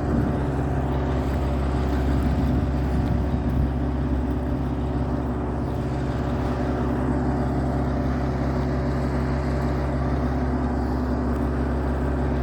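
A steady, low engine drone that holds level throughout.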